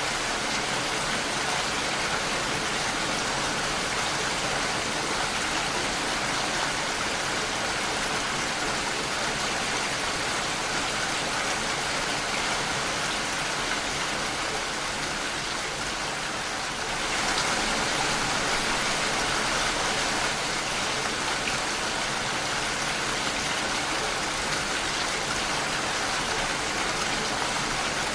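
Steady rain falling against a window pane, an even wash of drops. About seventeen seconds in it dips slightly and then comes back a little louder and brighter.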